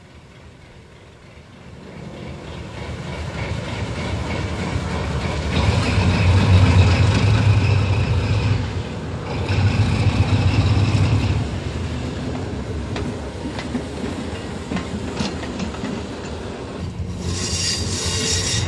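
GE 70-ton diesel switcher locomotive running by, its engine rumble building over the first few seconds and loudest in the middle. Near the end, wheels start squealing on the rails.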